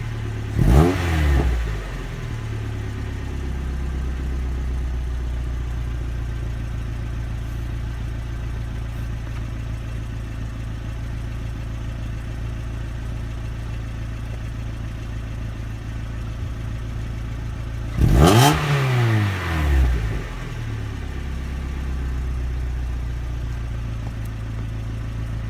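Mazda NB8C Roadster's 1.8-litre four-cylinder through its stock factory muffler, idling steadily. A short throttle blip comes about a second in, and a bigger pair of revs rises and falls about three-quarters of the way through before it settles back to idle.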